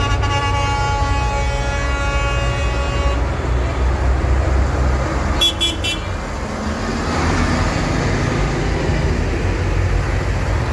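Tractor engines running with a low rumble while a vehicle horn sounds steadily for about three seconds, followed by three short high pips about halfway through.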